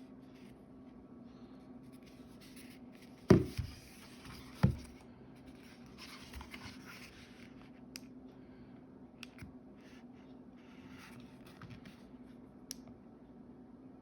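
Handling noise from a portable speaker being picked up and moved: two loud knocks, rustling and a few small clicks, over a steady low hum.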